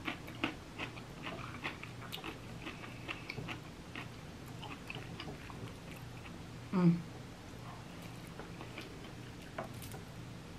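Close-up mouth sounds of someone eating soft ackee from a fork: chewing with small wet clicks and smacks. About two-thirds of the way through comes one short hum.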